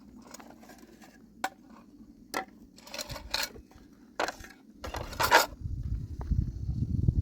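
A few sharp clicks and knocks with short bursts of scraping, then a low rumble that builds from about five seconds in and cuts off just after the end.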